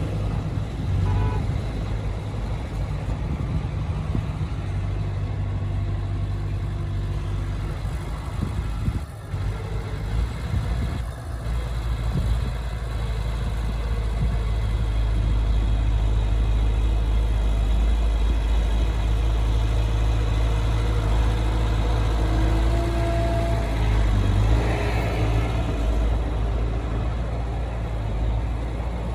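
Heavy earthmoving machine's diesel engine running steadily, a deep, loud drone, with two brief dips about nine and eleven seconds in.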